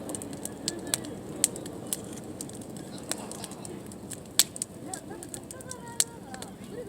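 Campfire wood burning and crackling, with irregular sharp pops; the loudest pop comes about four and a half seconds in.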